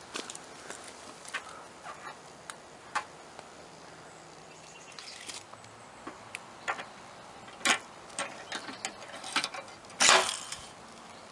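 Scattered clicks and light knocks from handling paintless dent repair glue-pull tools on a car panel, with a louder, slightly longer knock about ten seconds in.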